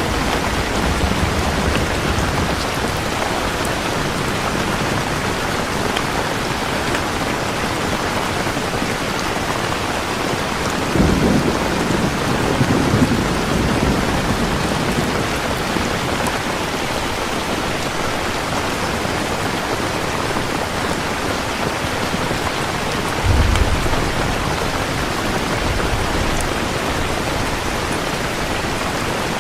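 Steady heavy rainfall with a low roll of thunder about eleven seconds in that lasts a few seconds, and a second, shorter low rumble near the end.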